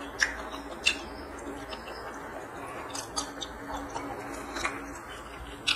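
Close-up chewing of chicken gizzard curry and rice, with wet lip-smacking clicks, about six sharp ones scattered a second or so apart.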